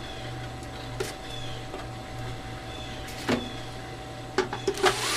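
A few short knocks and clicks of wood and tools being handled, over a steady low electrical hum.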